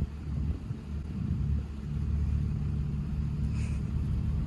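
Jeep Wrangler JL engine running with a low, steady rumble.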